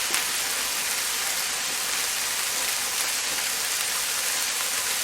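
Chicken breast frying in oil in a pan over medium heat: a steady, even sizzle.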